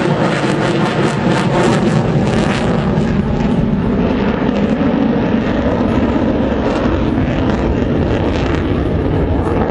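Lockheed Martin F-22 Raptor's twin afterburning turbofan engines, loud and steady as the jet flies a display manoeuvre. The high hiss fades after about three seconds, leaving a deeper jet noise.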